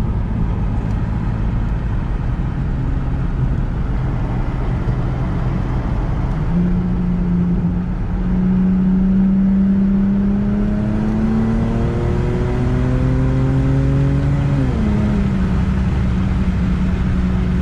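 Straight-piped Lexus GS300's 2JZ-GE VVT-i inline-six on the road, its cats and mufflers deleted and only the stock resonators left. The exhaust note is a steady rumble. About six seconds in, a strong drone tone comes in and rises slowly as the car gathers speed. Near the end it drops sharply in pitch and then holds steady.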